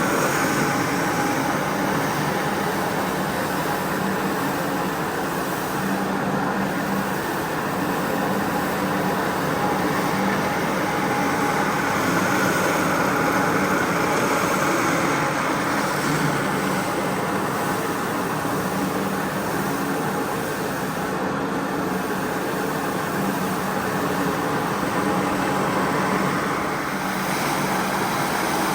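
Carpet-cleaning machine running steadily, a constant motor hum with hiss.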